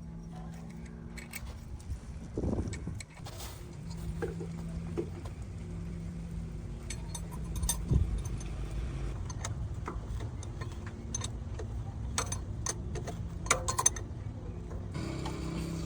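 Light metallic clinks and knocks from parts being handled, scattered irregularly over a steady low hum, with a heavier knock about eight seconds in.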